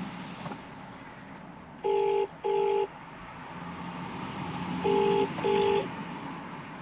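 British telephone ringing tone on a call waiting to be answered: two double rings, each a pair of short buzzes, about three seconds apart.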